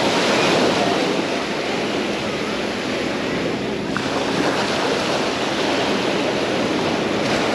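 Sea waves washing onto a sandy beach: a steady wash of surf.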